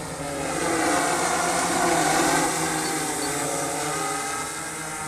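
Large multirotor RC aircraft's electric motors and propellers humming in flight, the pitch shifting as it manoeuvres. It grows louder about a second in and eases off near the end.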